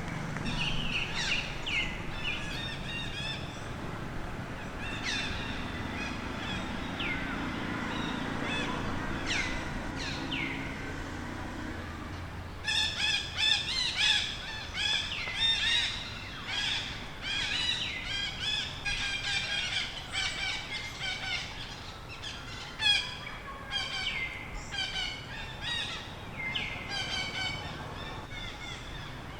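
High-pitched animal calls outdoors: at first a few scattered whistles that sweep sharply downward, then, from a little under halfway, a dense run of rapid, wavering chirps and squeals that keeps going.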